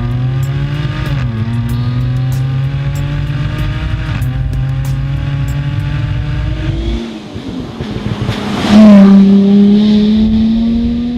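Jaguar F-Type V6 S's supercharged V6 exhaust under hard acceleration, the pitch climbing and dropping at two upshifts. Then it lifts off the throttle with crackling on the overrun, and a sudden, much louder blast of exhaust about nine seconds in.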